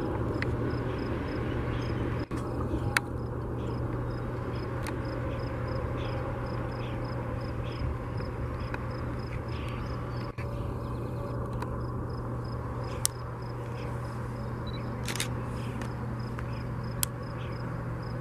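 Loaded coal cars of a CSX freight train rolling past on the rails: a steady rumble and rail noise with a constant low hum, broken by a few sharp clicks.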